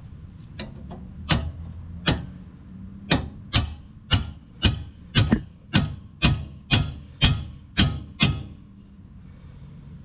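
Hammer blows driving steel roll pins into a skid steer's Quick-Tach attachment mechanism: a few light taps, then about fourteen sharp strikes at roughly two a second.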